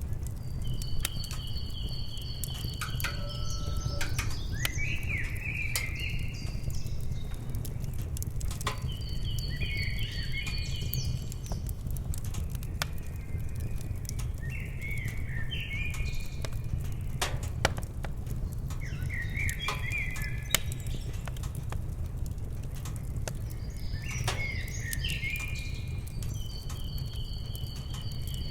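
Wood fire crackling with scattered sharp pops over a steady low rumble, while a songbird sings short whistled phrases every five seconds or so.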